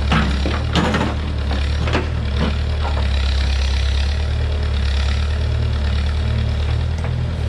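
Heavy machine's engine running steadily, with several sharp knocks or clanks during the first three seconds.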